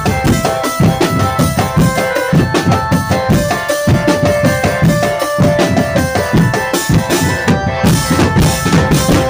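Drum band playing: quick, steady bass and snare drum strokes with a melody of held notes over them.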